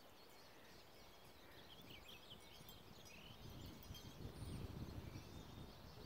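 Near silence with faint bird chirps, a few short quick chirps in the first half, and a faint low rumble that builds up about four seconds in.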